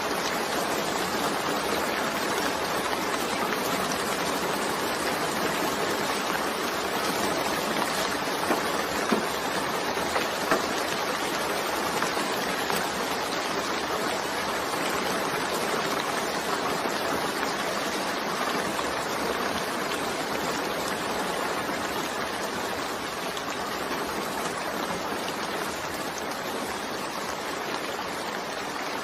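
Steady rain, an even hiss of drops with no thunder, and a few sharper drop hits about a third of the way in.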